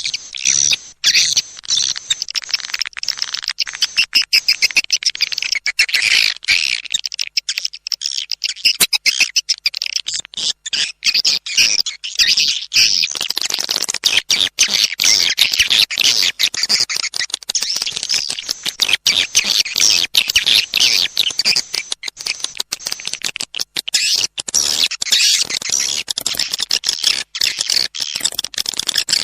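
Swiftlet lure call: a recording of swiftlets twittering and chirping densely and without pause, threaded with rapid clicks. This is the calling sound played in swiftlet houses to draw the birds in to nest.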